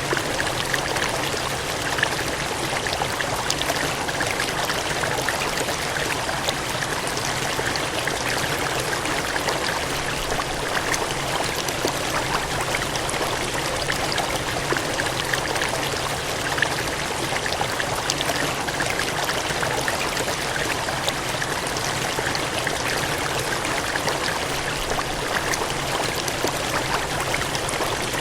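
Gushing water splashing and rushing steadily, like a cascade or stream.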